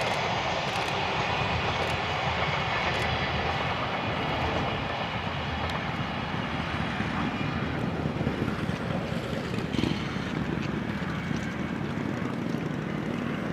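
Train of new 703 series railcars, hauled by an EF65 electric locomotive, crossing a railway bridge: a steady rumble of wheels on the rails with a few faint clicks. It eases slightly about four seconds in.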